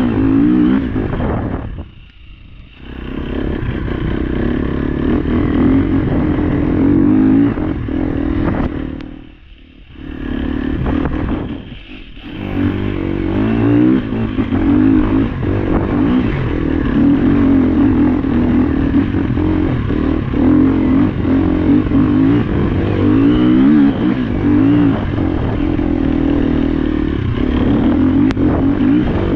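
Trail motorcycle engine running under constantly changing throttle, its revs rising and falling. The engine note drops away briefly about two seconds in, again around nine to ten seconds, and near twelve seconds, then pulls steadily through the rest.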